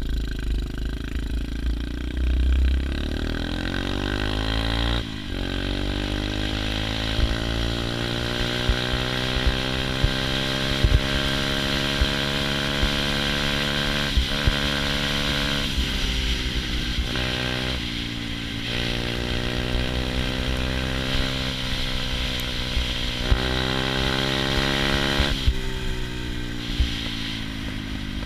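A 110cc pit bike's small single-cylinder four-stroke engine revving as it is ridden, the pitch climbing, then dropping at each gear change and climbing again, several times over.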